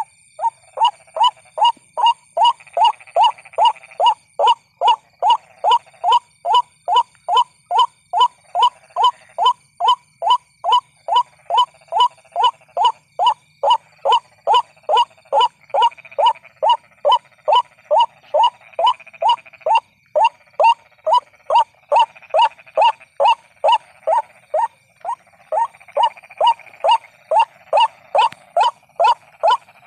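White-breasted waterhen repeating its call about twice a second in an unbroken run, each note sliding down in pitch. It is a lure recording used to call waterhens in for trapping.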